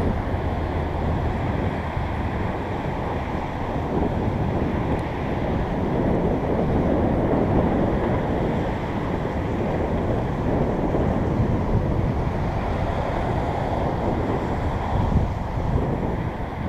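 Wind rushing and buffeting over the microphone of a camera carried on a moving bicycle: a steady, loud low rumble that rises and falls.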